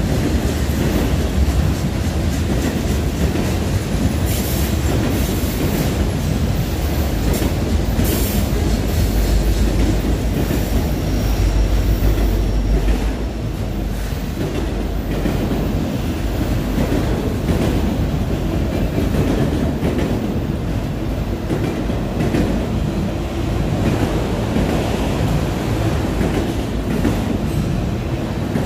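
Freight train of autorack cars rolling past close by: a steady rumble of wheels with clickety-clack over the rail joints, heaviest about ten seconds in.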